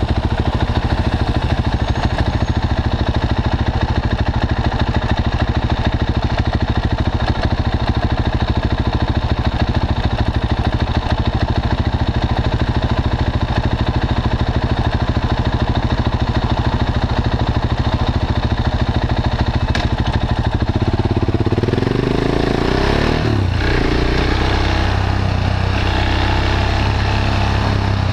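KTM 690 Duke's single-cylinder engine, breathing through an Akrapovic slip-on exhaust, idling steadily at a standstill. About three quarters of the way through it pulls away: the revs rise, drop back once at a gear change, and rise again before settling into a steady run.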